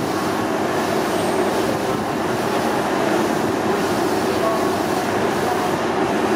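Steady rumble and hum of trains at a busy railway station platform, with the background noise of a boarding crowd.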